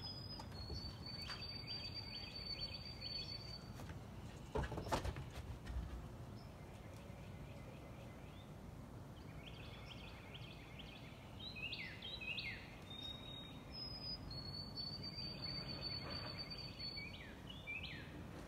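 Songbirds singing in a yard: a long high whistled song with trills at the start and again about fourteen seconds in, with shorter falling chirps in between, over a steady low outdoor rumble. A single thump about five seconds in is the loudest sound.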